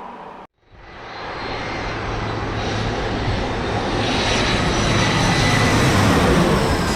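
Jet airliner on short final, its engines growing steadily louder as it comes in, a rushing roar with a thin steady high whine on top. The sound begins after a brief dropout about half a second in.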